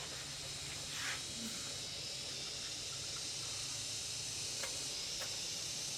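A just-repaired mains-powered machine running on test after being plugged in: a steady rush of air over a faint low motor hum.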